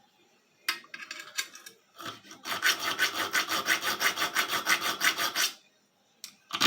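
Hand file rasping back and forth in a notch on the steel spine of an old butcher knife, cutting decorative file work: a few short strokes, then a fast, even run of strokes that stops about a second before the end, with one more stroke starting right at the end.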